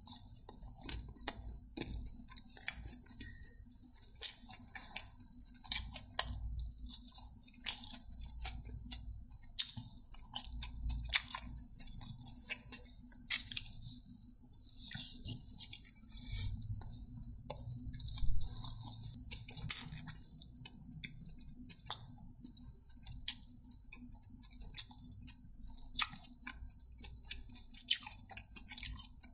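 A person chewing food close to the microphone, with many irregular wet clicks and smacks of the mouth.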